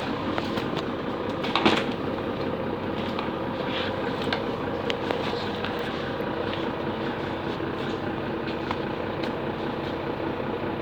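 Steady rumble and hiss of vehicle-like background noise, with one sharp knock a little under two seconds in.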